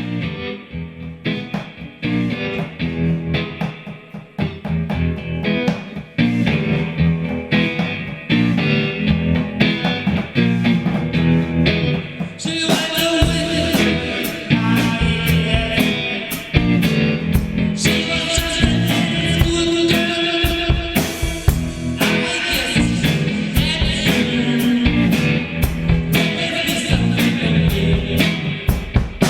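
Rock band playing, with electric guitar and drum kit; the drums and cymbals come in fuller about twelve seconds in.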